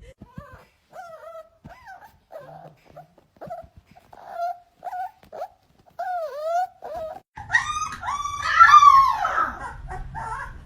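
A dog whimpering and yipping in short, pitched calls, then a louder stretch of overlapping, howl-like calls about three quarters of the way in.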